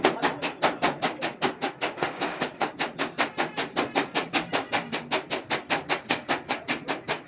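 Hammer tapping sheet metal in a fast, even rhythm of about five strikes a second, each with a light metallic ring: panel beating a dented car door by hand.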